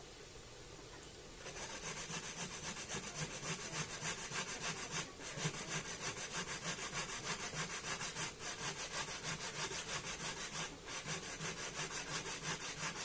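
Rhythmic hand scraping strokes in food preparation, about three a second, starting about a second and a half in and keeping an even pace.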